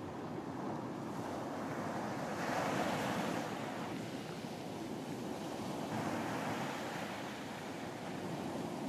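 Ocean surf washing onto a beach: a continuous rush of waves that swells louder about two and a half seconds in, then eases off.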